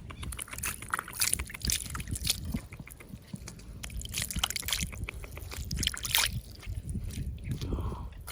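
Water sloshing and splashing, with irregular scrapes and knocks throughout.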